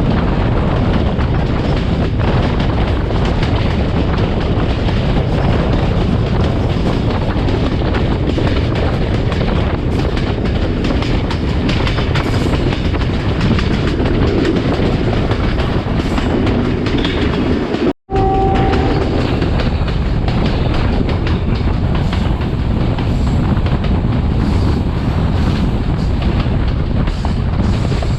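Class S13 diesel multiple unit running at speed: a steady, loud rumble of wheels on the rails with rushing air. The sound drops out for an instant about two-thirds of the way through.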